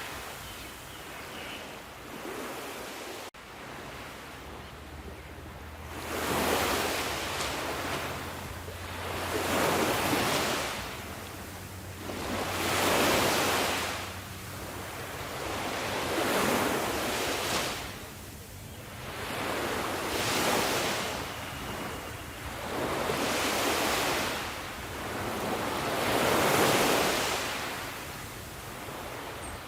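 Ocean waves breaking and washing up a shore, one surge about every three to four seconds.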